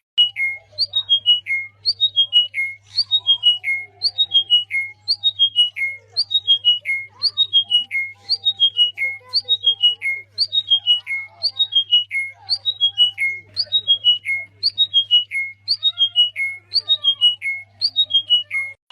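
A songbird repeating one short phrase over and over, about five clear notes stepping down in pitch, roughly one and a half phrases a second, over a steady low electrical hum.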